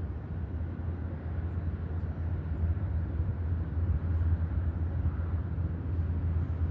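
Freight train's diesel locomotives running, a steady low rumble.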